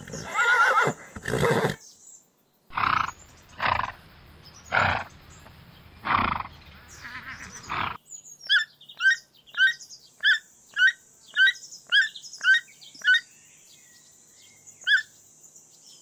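Horses whinnying and blowing: a wavering whinny, then several harsh, breathy snorts about a second apart. From about halfway, a toco toucan gives a run of short, clipped calls, about two a second.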